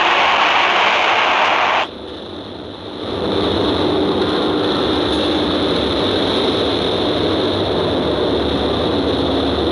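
Loud, steady machine running noise with a rushing hiss. It cuts off abruptly about two seconds in, and after a moment a similar steady running noise with a low hum takes over.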